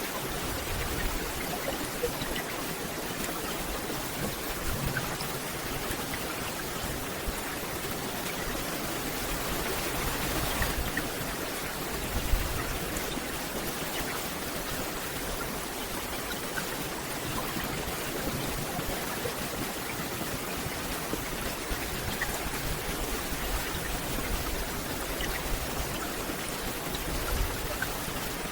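Steady rain falling on a dense forest canopy: an even hiss with scattered drips and ticks of single drops on leaves.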